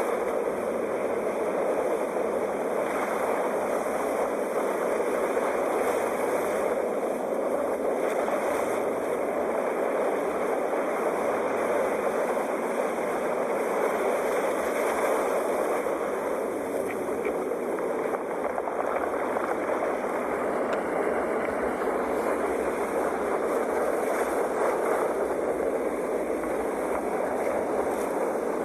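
Ocean waves breaking in a steady, continuous rush of surf that swells and eases gently.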